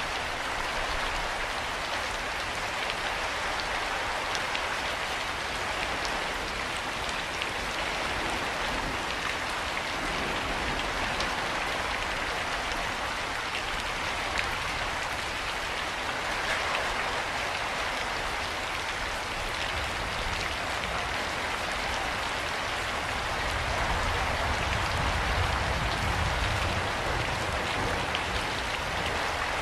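Steady rain falling, an even dense hiss with individual drops ticking through it. A low rumble swells for a few seconds near the end.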